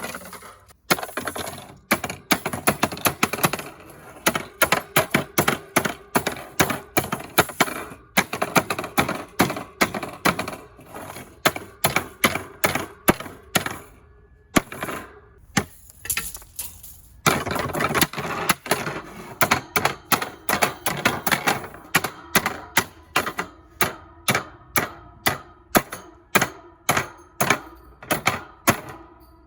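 Rapid repeated blows smashing the plastic and metal parts of a vintage Tatung 16-inch table fan, several sharp hits a second, with a short pause about halfway through.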